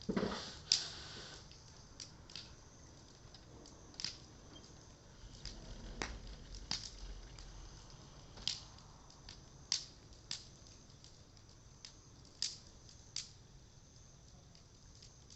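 Cedar-wood bonfire crackling, with sharp pops and snaps coming at irregular intervals.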